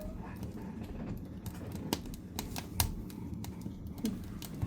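Firewood burning in a fireplace, crackling and popping in sharp, irregular snaps, one of them louder near the middle.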